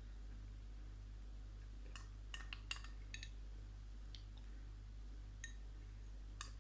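A few faint, sharp clicks and clinks, most of them bunched together a couple of seconds in, then single ones every second or so, over a steady low electrical hum.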